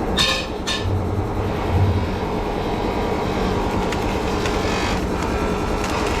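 Steady din of rim-making factory machinery running, with two short hissing bursts near the start and two low thumps about one and two seconds in.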